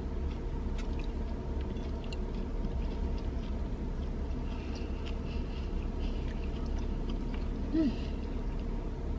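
A person chewing a mouthful of spicy grilled chicken sandwich with faint wet clicks, over a steady low hum. A short hummed vocal sound comes near the end.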